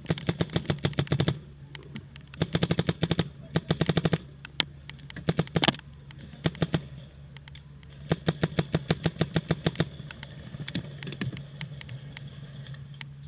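Planet Eclipse Ego 10 electronic paintball marker firing rapid strings of shots, three long bursts with a single loud shot between them, followed by scattered shots near the end.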